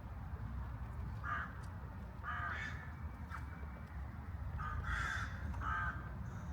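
A crow cawing, about five short harsh caws, one, then another, then a quick cluster of three near the end, over a steady low city rumble.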